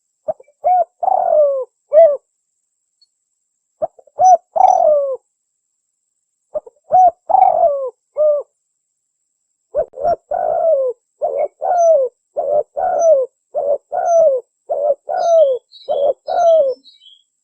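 Spotted dove (tekukur) cooing: three separate coo phrases, then from about ten seconds in a quicker run of repeated coos, about two a second. Faint high chirps of a small bird come in near the end.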